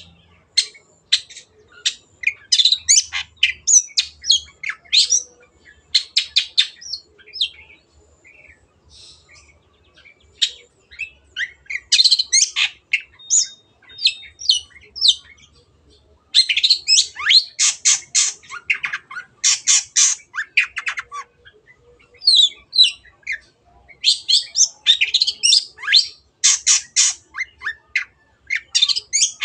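Long-tailed shrike (cendet) singing in fast runs of sharp, high chips and harsh scratchy notes, broken by short pauses, with a sparser lull about a third of the way in.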